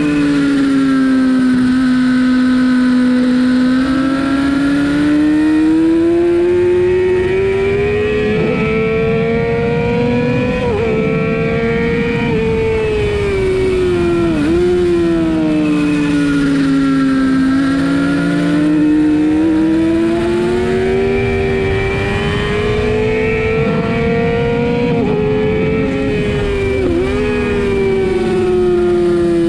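Sportbike engine running hard at high revs, its pitch slowly rising and falling over several seconds at a time, with a few quick sharp dips in pitch.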